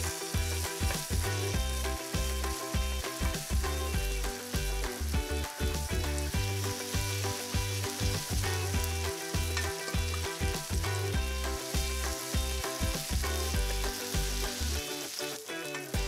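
Grated chicken fritter batter sizzling in hot oil in a nonstick frying pan as spoonfuls are dropped in and spread flat. Background music plays underneath.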